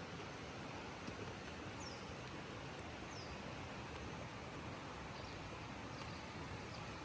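Steady outdoor hiss with two short, high bird chirps, each sliding downward, about a second apart.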